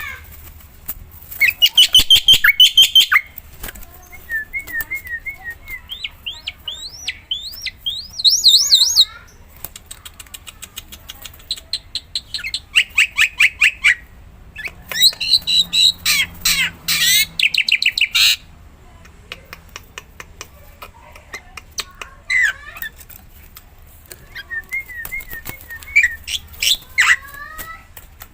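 Black-winged starling (jalak putih) singing: bursts of rapid chattering notes and rising whistled phrases, separated by short pauses, over a faint low hum.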